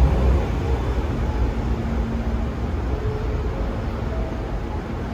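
Electric train running, its low rumble loudest at the start and easing off within the first second, then carrying on more quietly with a few faint steady tones.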